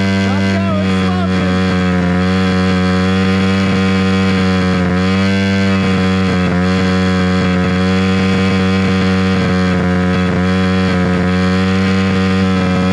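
Amazon pit bike engine held at high revs, a loud steady drone with a brief dip in pitch about five seconds in. It is being run flat out on purpose to blow the motor.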